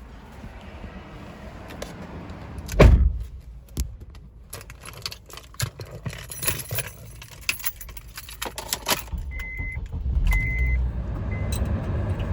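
Keys jangling and clicking, with one heavy thump about three seconds in. Near the end come two short, high, steady beeps, and a low steady rumble starts up.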